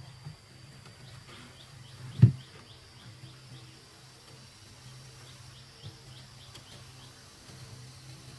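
A single sharp knock about two seconds in, over a steady low hum, with a string of faint, short high chirps.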